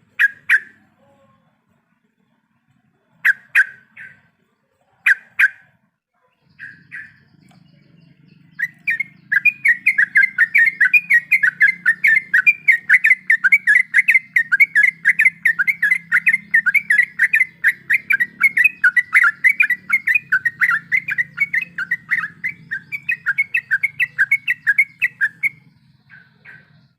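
Yellow-vented bulbul (trucuk) calling. A few separate sharp calls come first, then from about nine seconds in a long rapid run of repeated notes, about four a second, which stops shortly before the end. A faint low hum sits underneath.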